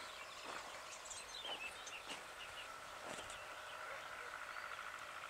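Small birds chirping and calling, over a steady high trill and a few faint taps.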